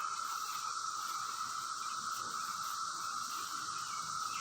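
Chorus of 17-year periodical cicadas (Brood X) in the trees: a steady, unbroken drone from millions of singing insects.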